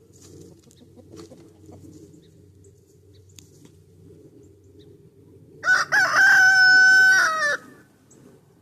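A rooster crows once, a single crow about two seconds long with a long held note, a little past halfway through. Under it, the hens keep up a soft, low clucking.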